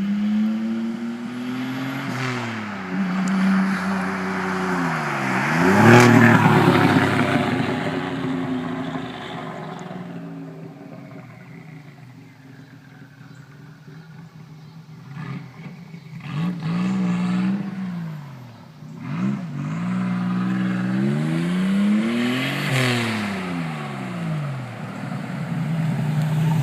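Straight-piped, catless 1986 Nissan 300ZX Z31 turbo's 3.0 V6 being free-revved: several rev-ups that rise and fall back, the biggest about six seconds in, then a quieter idle and a run of quick blips before more revs near the end.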